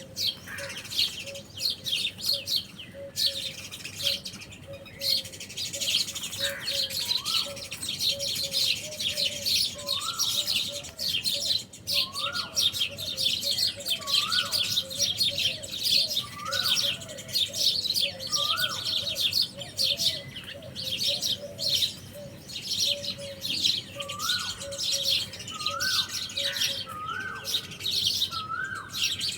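A dense chorus of many small birds chirping and tweeting without pause. From about a quarter of the way in, a lower, rising call repeats roughly every second or so.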